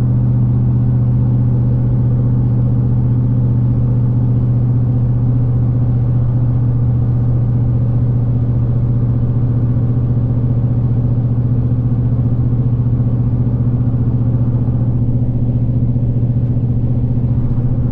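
A 2013 Roush F-150's 5.0 V8 with its catalytic converters and resonator cut out, heard from inside the cab at a steady highway cruise: an even, unchanging low exhaust note.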